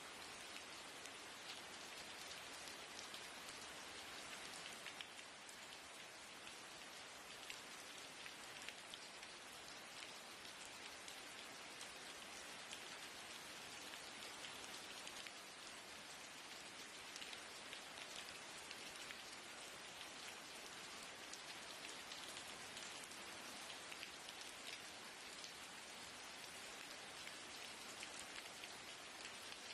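Steady rain on a window: an even hiss of rainfall with many small drop ticks on the glass.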